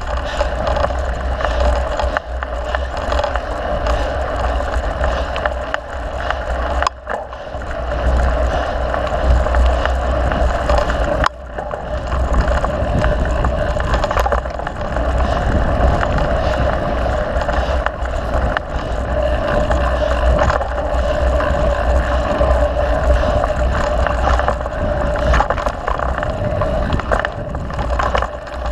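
Mountain bike ridden along a dirt trail: wind on the microphone, tyre noise and a steady stream of small chain and frame rattles, with the sound dipping sharply twice.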